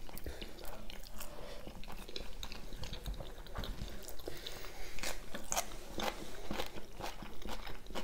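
Close-miked eating of steamed meat dumplings (manty): biting and chewing, with many small mouth clicks scattered throughout.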